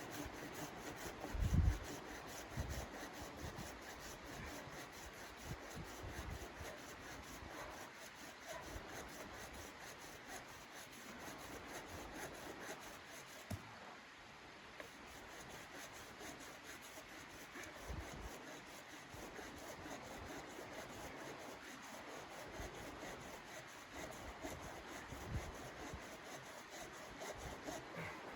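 Continuous irregular rubbing and scraping, with a low thump about one and a half seconds in.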